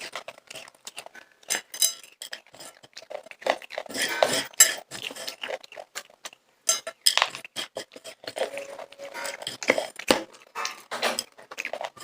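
Person eating popcorn from a dish: irregular crunching and crackling with clinks, louder around four and seven seconds in.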